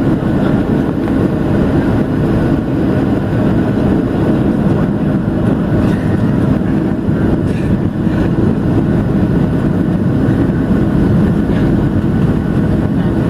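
Steady, loud cabin noise inside a Boeing 737-700: the hum of its CFM56 jet engines mixed with airflow, an even low drone with no sudden events.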